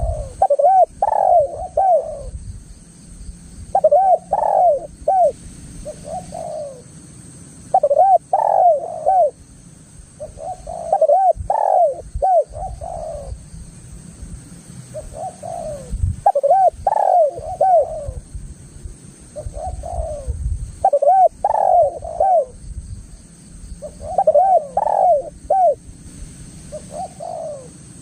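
Spotted dove (tekukur) cooing. Phrases of several arched coos, each about one to two seconds long, repeat every few seconds, with shorter coo groups between them.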